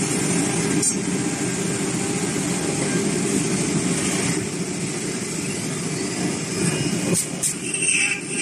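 Automatic CNC wood lathe running steadily as it machines a wooden chair leg, with a few sharp clicks a little after seven seconds in and again near the end.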